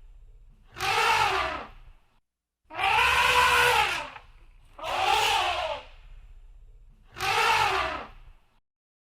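Elephant trumpeting: four separate blasts, each about a second long and rising then falling in pitch, with short gaps between them.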